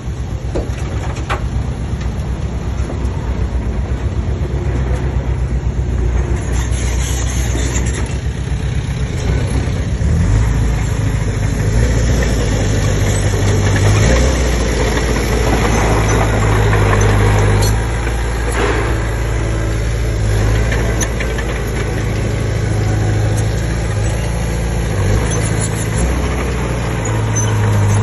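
Komatsu D20P crawler bulldozer's diesel engine running steadily, growing louder and heavier about ten seconds in as it takes on load.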